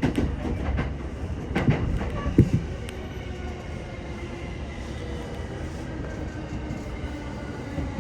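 Sobu Line local electric commuter train running, heard from inside the passenger car: a few wheel clacks over rail joints in the first couple of seconds, then a steadier rumble with a faint whine.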